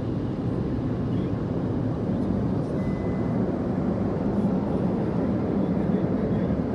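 Automatic car wash machine running over the car, heard from inside the cabin as a steady, dense low rumble.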